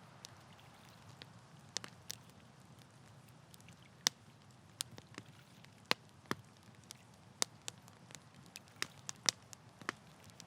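Wood campfire burning: a low steady rumble of flame with irregular sharp crackles and pops, a few of them loud, from about four seconds in and again near the nine-second mark.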